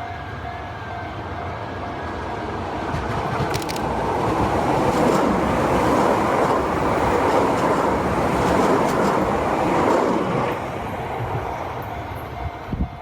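Keihan Keishin Line 800 series train passing close by at a level crossing: the rumble of its wheels builds, is loudest for several seconds in the middle, then dies away. The crossing's alarm tone is still sounding at the very start and fades out within the first second.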